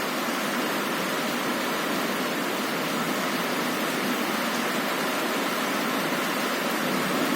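Heavy rain falling steadily against a window: an even, unbroken hiss with no thunder.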